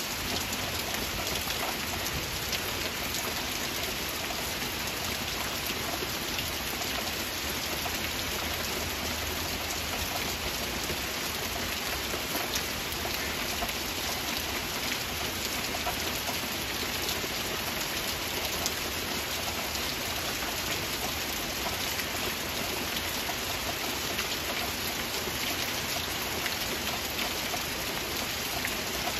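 Steady heavy rain: a dense, even hiss dotted with countless fine drop ticks, unchanging throughout.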